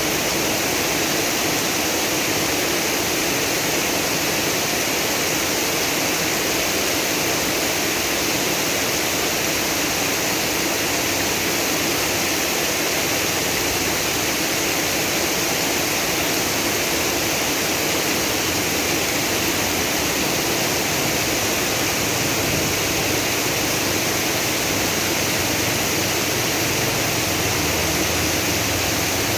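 Heavy rain pouring down with floodwater running: a steady, even rushing hiss that does not let up.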